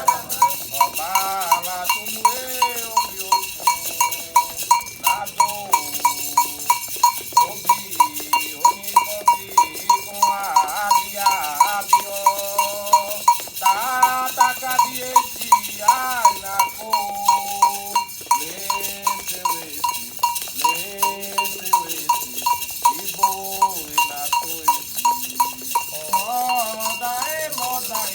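Candomblé chant for Xangô: voices singing over an agogô bell struck in a steady rhythm, about two to three strikes a second.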